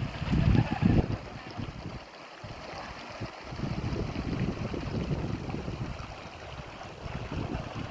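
Wind buffeting the microphone: an irregular, gusting low rumble, loudest in the first second, over a faint steady outdoor hiss.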